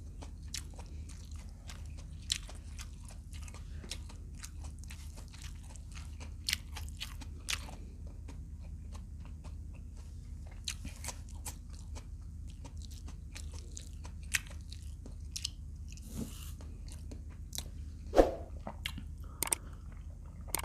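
Close-up chewing and crunching of fried adobo quail, irregular short crackles and crunches of crisp meat and small bones, over a steady low hum.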